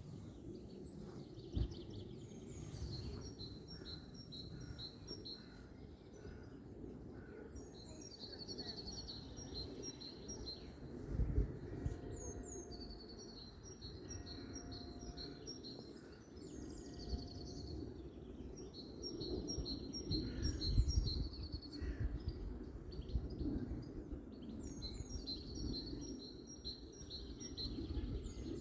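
A songbird singing high phrases over and over, every few seconds: each phrase opens with a couple of high notes and runs into a quick series of repeated notes. A steady low rumble of outdoor background noise runs underneath.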